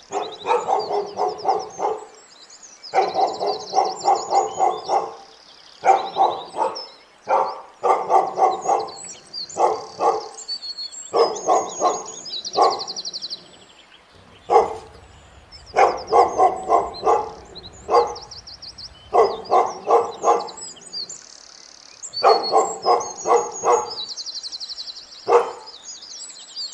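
Dog barking in rapid volleys of several quick barks, a new volley every two seconds or so.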